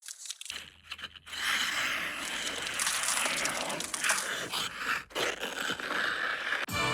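Ice skate blades scraping and hissing across rink ice, irregular and noisy, with music starting near the end.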